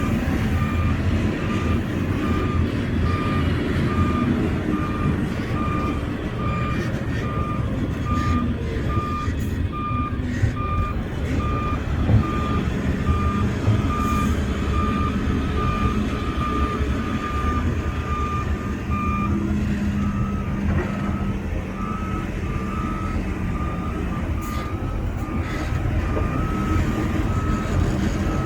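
Reversing alarm on heavy earthmoving equipment beeping steadily in a regular rhythm over the low rumble of diesel engines. About two-thirds of the way through, a slightly higher-pitched beep takes over.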